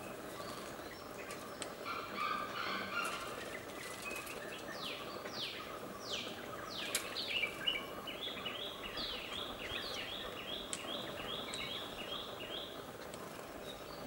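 Small birds calling over a steady outdoor hiss. A soft chatter comes about two seconds in, then several quick downward-sweeping whistles around five seconds in. After that, a rapid run of repeated short notes, about three a second, lasts some four seconds.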